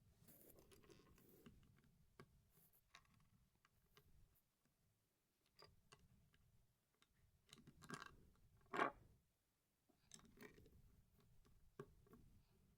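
Faint clicks and rustles of small plastic LEGO bricks being handled and pressed together. The sharpest clicks come about eight and nine seconds in.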